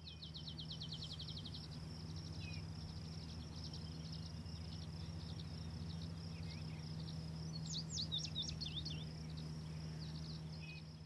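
Birds chirping faintly in an open meadow, with a fast trill of repeated high chirps at the start, scattered chirps after it, and a burst of quick sweeping whistled notes about eight seconds in. A steady low hum runs underneath.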